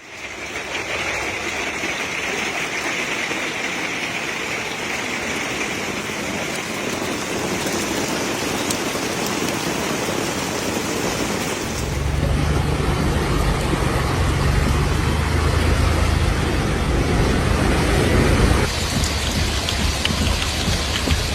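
Heavy rain pouring down in a steady hiss. About halfway through, the sound changes abruptly and a deep low rumble joins the rain, then shifts again a few seconds before the end.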